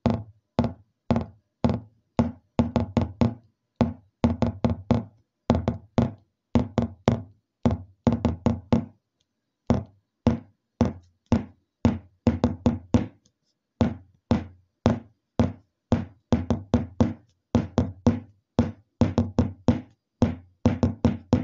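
Rhythmic knocking: clusters of quick, sharp hits repeating about once a second with short silences between, pausing briefly about nine seconds in.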